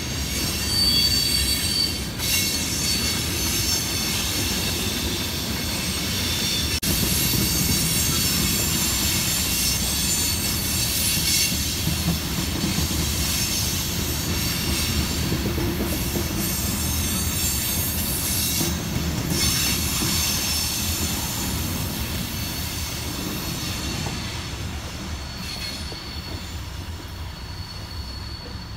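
Freight train cars rolling past on the rails with a low rumble and high, steady wheel squeals, easing off over the last few seconds as the train goes by.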